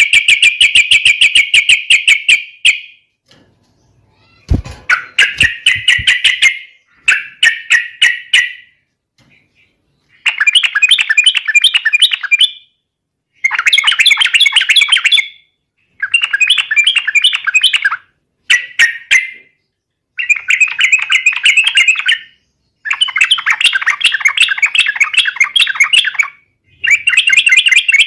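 Yellow-vented bulbul (trucukan) singing loudly: rapid, bubbling chattering phrases in repeated bursts of about two seconds with short pauses between. A single sharp knock sounds about four and a half seconds in.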